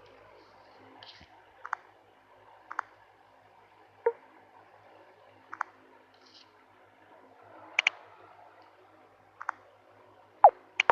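A series of about eight sharp, short clicks at irregular intervals over a faint steady hiss, two of them close together near the end.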